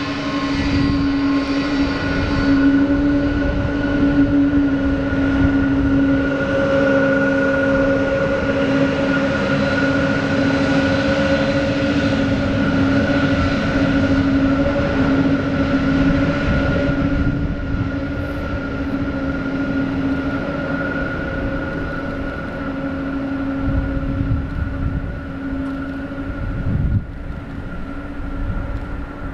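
Boeing 777-200's twin turbofan engines running at taxi power, a steady whine with a few held tones over low rumble. It grows thinner and a little quieter in the second half. Gusty wind rumbles on the microphone.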